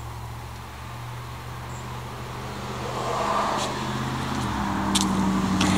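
A car engine running steadily, growing louder from about three seconds in and shifting up in pitch shortly before the end, with a few light clicks.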